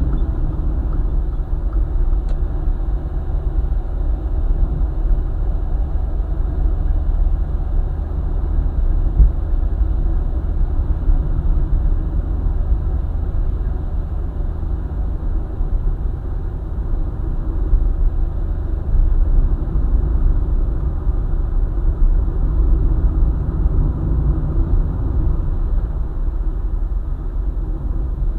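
A car driving along a highway: a steady, even low rumble of road and engine noise that does not rise or fall.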